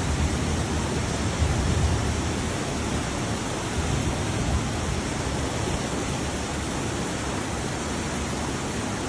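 Floodwater rushing steadily, a dense continuous wash of water noise.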